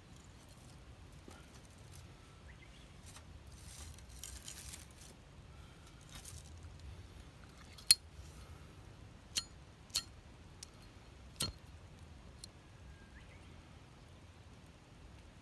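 A handful of sharp clicks or snaps over a quiet background: the loudest about halfway through, then three more within the next few seconds and a couple of fainter ones after, with a soft rustle before them.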